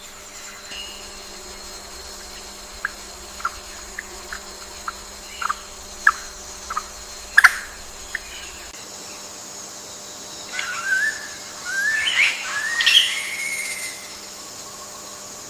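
Birds calling: a run of short, sharp chirps spaced irregularly, then about two thirds of the way in a warbling phrase of rising and falling notes, over a steady high-pitched insect drone.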